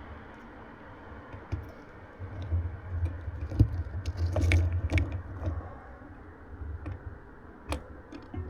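Scattered clicks and small knocks of hands handling bike gear, busiest around the middle, over a low rumble.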